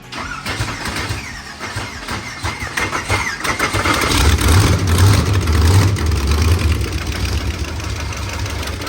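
Small-block Chevy V8 cranking over, catching and running, swelling in level midway and then settling. It doesn't sound very good: the engine has holed its oil pan, probably a broken connecting rod.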